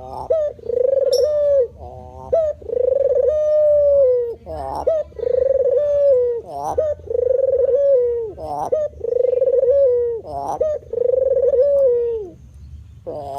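White spotted dove (terkukur) cooing: six long, level coos, each about a second and a half long with a short gliding note before it and a drop at the end, repeating about every two seconds.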